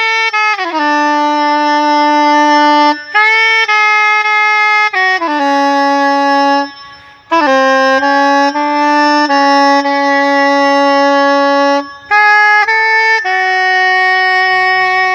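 Soprano saxophone playing a slow opera melody in long held notes, with a few short pauses between phrases and a long held final note.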